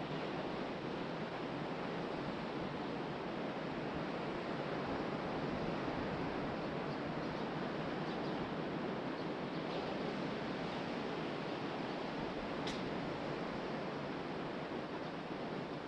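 Ocean surf washing steadily onto a sandy beach, with wind. A single faint click about thirteen seconds in.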